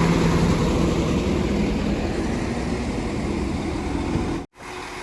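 Class 195 diesel multiple unit's engines running, a steady low drone. The sound drops out for an instant about four and a half seconds in.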